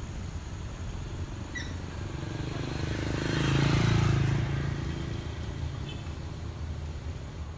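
Car engine and road rumble on a winding mountain road. An engine swells to a louder, pitched drone about three to four seconds in, then fades back to the steady rumble.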